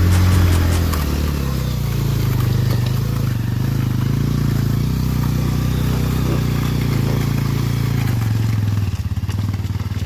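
Motorcycle engine running at low, steady revs, easing off about nine seconds in to a slower, pulsing beat.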